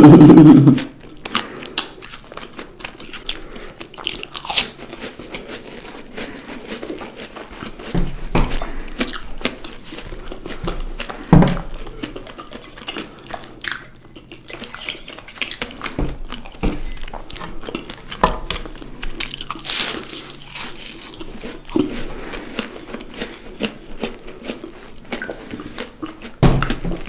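A person eating: irregular crunching, biting and chewing sounds, opening with a short loud burst.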